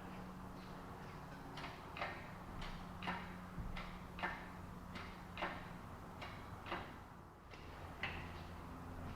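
Ratchet mechanism clicking in a slow, regular series, about two sharp clicks a second, then a pause and one more click, over a steady low hum.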